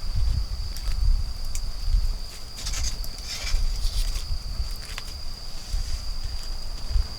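Autumn insect trilling steadily at one high pitch, with scattered crackles from a wood fire. A low rumble runs underneath.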